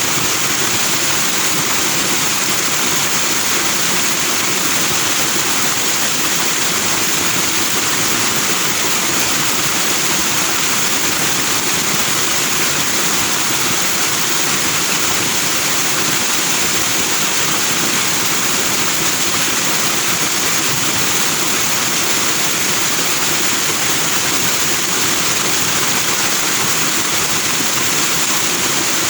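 Foaming stream water flowing, a steady, unbroken white-noise rush with no pauses or changes.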